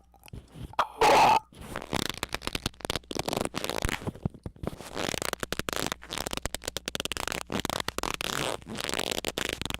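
Harsh, distorted crackling and sputtering noise: dense, irregular clicks packed close together, with a brief louder burst about a second in.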